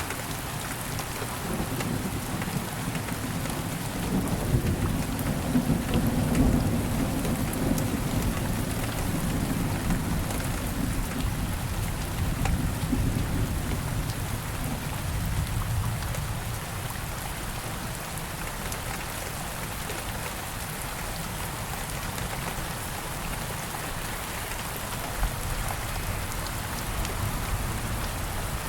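Steady rain falling, with a low roll of thunder that swells in the first half and fades away by about the middle.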